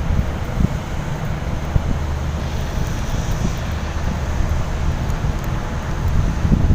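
Steady low engine rumble, with wind gusting on the microphone.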